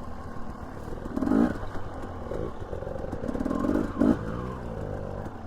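Dirt bike engine running while riding, its revs rising and falling several times as the throttle is worked.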